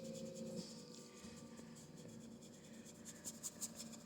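Faint, scratchy strokes of a paintbrush on canvas, in quick repeated dabs that grow louder and more frequent near the end.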